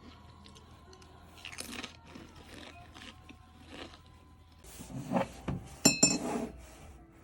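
Close-up eating sounds: a series of crunchy bites and chews into crisp food, growing louder about two-thirds of the way in. One sharp clink with a brief ring comes about six seconds in.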